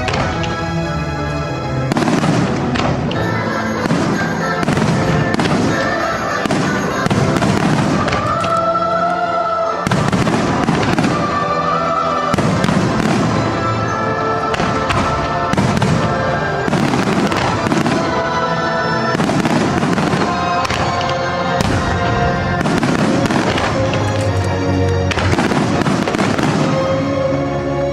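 Aerial fireworks shells bursting one after another, about one or two a second, over the display's accompanying music.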